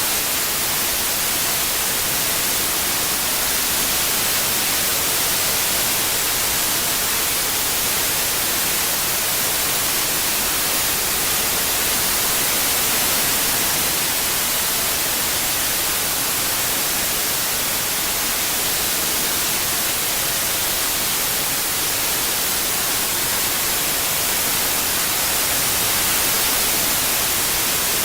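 Steady white noise, an even hiss weighted toward the high frequencies, with no changes or events.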